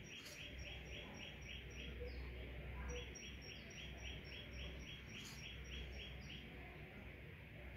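Faint, evenly spaced high chirps, about four a second, from a small bird, in two runs with a pause of about a second between them, over a low steady hum.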